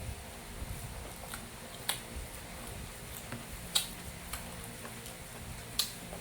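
Close-miked eating sounds: a person chewing a mouthful of beef kare-kare and rice, with three sharp clicks about two seconds apart and a few fainter ticks.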